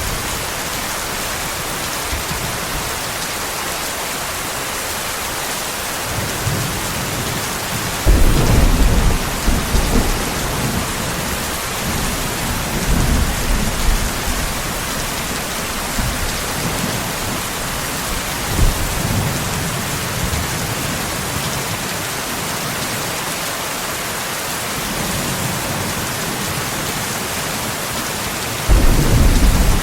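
Steady heavy rain with rolls of thunder: a sharp, loud thunder rumble breaks in about eight seconds in and rolls on for several seconds, softer rumbles follow, and another loud clap comes near the end.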